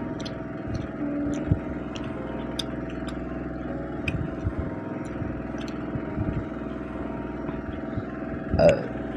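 Eating sounds of fish curry and rice being eaten by hand: scattered small clicks and smacks from chewing and picking out fine bones, over a steady background hum. A short vocal sound comes near the end.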